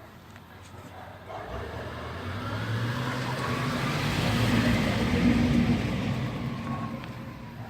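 A FedEx delivery truck driving past. Its engine rumble grows louder to a peak about five seconds in and then fades away, with a faint whine that rises and then falls in pitch.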